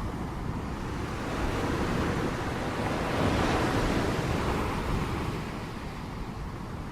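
Ocean surf: waves breaking and washing up the shore in a steady rush, swelling about a second and a half in and easing off near the end.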